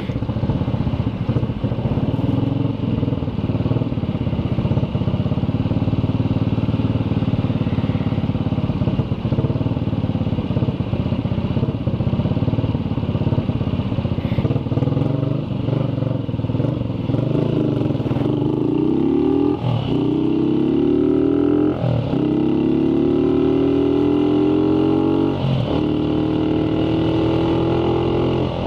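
Motorcycle engine running under way with wind rushing past, then accelerating hard in the second half: the pitch climbs steadily and drops back at three upshifts.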